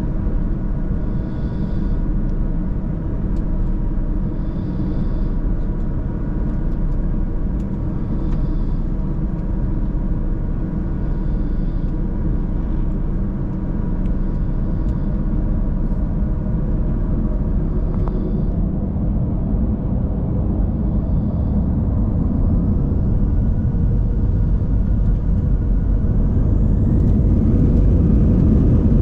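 Airbus A320 cabin noise: a steady low rumble while the airliner rolls on the ground, then from about two-thirds of the way in a rising whine as the engines spool up, growing louder toward the end.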